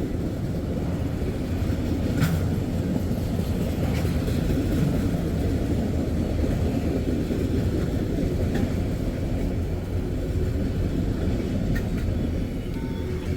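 Freight train tank cars rolling past: a steady low rumble of steel wheels on rail, with an occasional faint click from the wheels.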